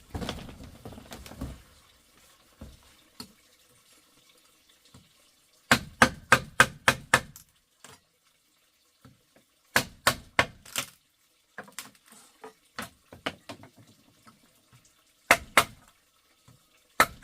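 Sharp knocks in short quick runs, about six strikes a second, the longest run of about eight strikes a little after the middle, then scattered single knocks near the end.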